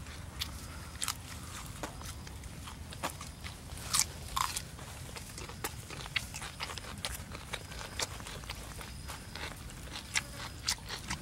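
Close, crunchy chewing: irregular crisp crunches a few times a second, loudest about four seconds in.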